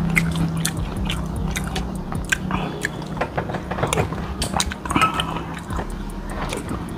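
A person eating soto ayam close to the microphone: chewing with many short wet clicks and smacks from the mouth as spoonfuls of noodles and broth go in.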